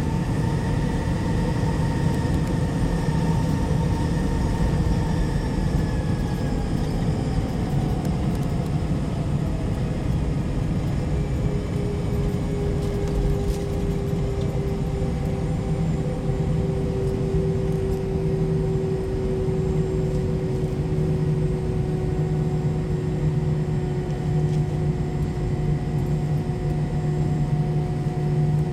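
Jet airliner engines running, a steady rushing noise with a low hum and several whining tones that slowly fall in pitch.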